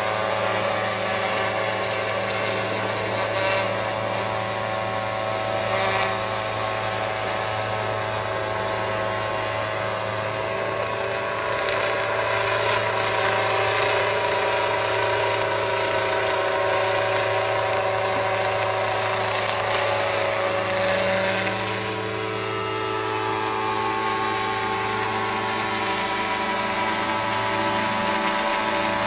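A rotor aircraft running steadily, a dense mechanical hum of several held tones over a low drone, its pitch shifting slightly about three-quarters of the way through.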